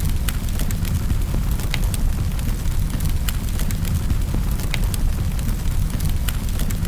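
Fire crackling in a fireplace: irregular sharp snaps and pops, a few a second, over a steady low rumble.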